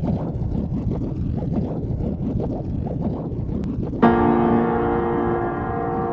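Honda PCX scooter riding, its engine and wind rush on the microphone as an uneven rumble. About four seconds in, this is cut off by piano music that starts abruptly with a sustained chord.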